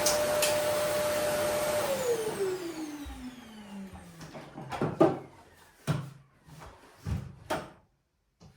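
Vacuum cleaner running with a steady whine, switched off about two seconds in: the motor winds down, its whine falling in pitch as the noise dies away. A few sharp knocks and clunks follow near the end.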